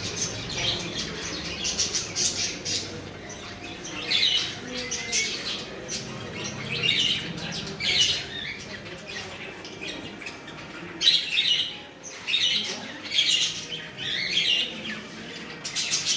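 Birds chirping and squawking: a string of short, high-pitched calls every second or so, the loudest bursts about 11 and 13 seconds in.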